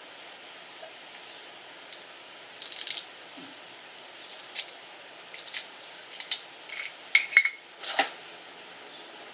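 Scattered clicks, taps and short rustles of hands fitting a plastic tire liner strip into a bicycle tire, coming more often and louder in the last few seconds.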